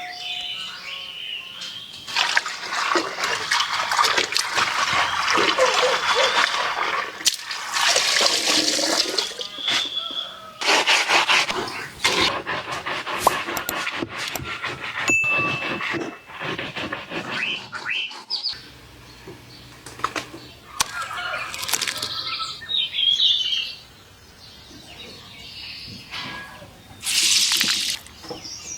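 Water sloshing and splashing in spells of a few seconds, broken by quieter gaps, as green leaves are crushed by hand in a basin of warm water. Birds chirp faintly now and then.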